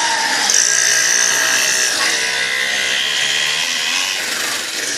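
Small engine of a mini dirt bike running, its buzzy note rising and falling as the throttle changes.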